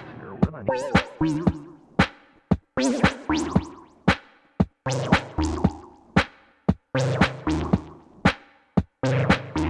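Electronic ambient techno played live on drum machine and synthesizers. Sharp click-like percussion hits fall in an uneven pattern over wavering synth tones, and the sound drops out briefly several times.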